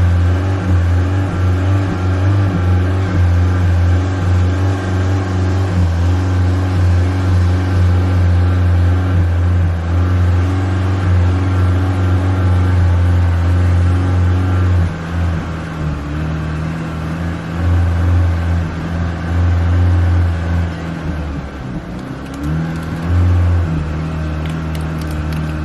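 Honda Civic engine held at steady raised revs, then easing off a little about halfway through, with a short dip and a quick rise in revs near the end.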